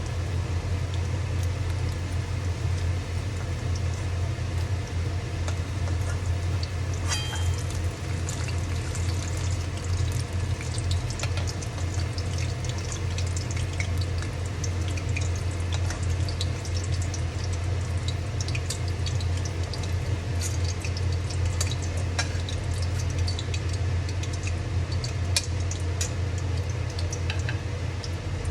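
Fish pakoras frying in hot oil, with scattered crackling and spitting that thickens from about a quarter of the way in, over a loud steady low hum.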